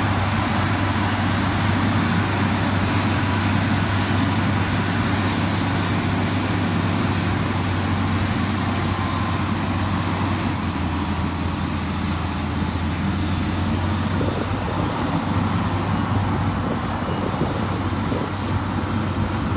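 Motor grader's diesel engine running steadily under load, a constant low drone over a dense, noisy rumble.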